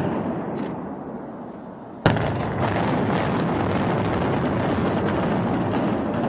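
Building demolition by explosives: a rumble fading over the first two seconds, then a sharp blast about two seconds in, followed by a steady loud rumble of the structure coming down.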